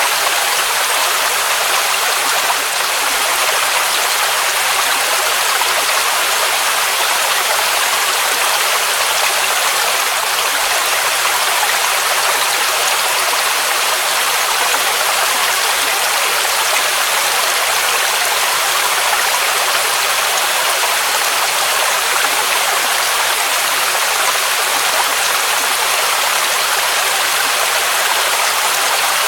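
Mountain waterfall rushing steadily: an even, bright roar of falling water with little low rumble.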